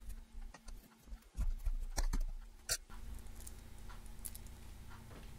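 Hands handling a small metal swivel snap hook and a fabric strap: a few light clicks and taps, the loudest about two to three seconds in, over a steady low hum.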